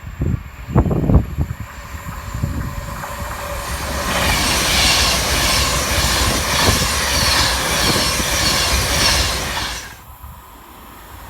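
A train passing at speed on the main line: low rumbling at first, then the rush of wheels on rail rising to a loud hiss for several seconds and dropping away suddenly near the end as the last coach goes by.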